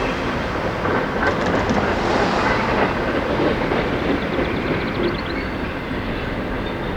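A CN freight train rolling past at close range: a steady rumble of wheels on rail, with a few short runs of light clicks.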